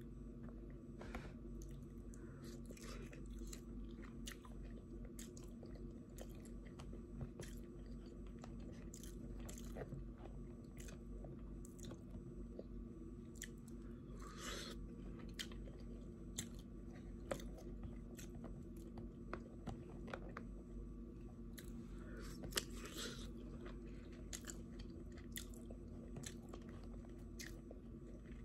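A person chewing and eating seafood close to the microphone: irregular wet mouth clicks, smacks and occasional crunches, over a steady low hum.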